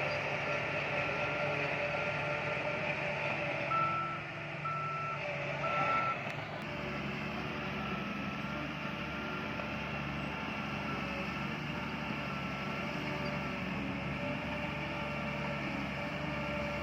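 Reversing alarm on a heavy construction vehicle beeping about once a second over a running diesel engine. The beeps are loudest for three beats about four to six seconds in, and the engine grows louder from about six and a half seconds.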